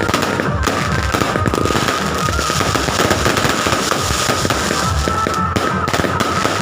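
Fireworks and firecrackers going off, a dense, continuous crackle of rapid bangs with no break. A steady high tone runs underneath.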